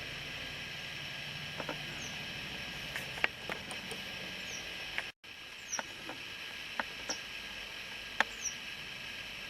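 Faint, very high, short falling peeps from nestling birds every second or two, over a steady hiss, with scattered soft clicks and taps. The sound cuts out completely for an instant about five seconds in.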